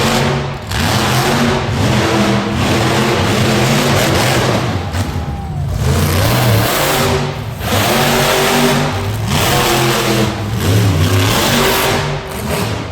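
Monster truck engine revving hard, the throttle opened and lifted again and again, with short drops every second or two as the pitch falls and climbs back.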